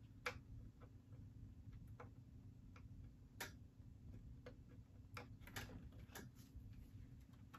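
Faint, scattered clicks and light plastic knocks of cable connectors being plugged into an iMac G3 chassis, over a low steady hum.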